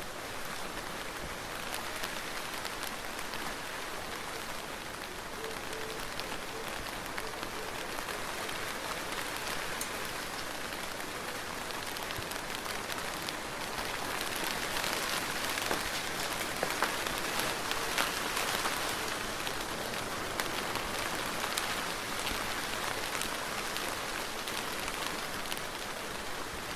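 Soft, steady rain falling on a surface, with scattered sharper ticks of single drops; it grows a little heavier about halfway through, then eases.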